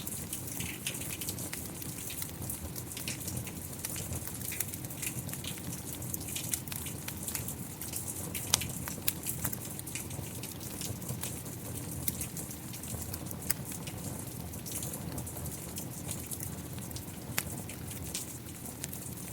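Steady rain with a wood fire crackling, sharp pops scattered through it, the sharpest about eight and a half seconds in.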